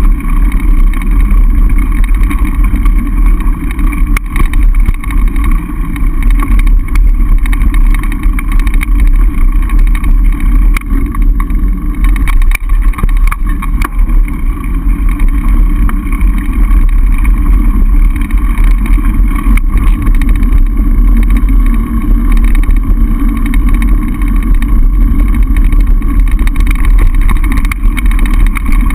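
Wind buffeting the microphone of a camera riding on a mountain bike, a loud steady rumble, with faint ticks from the bike.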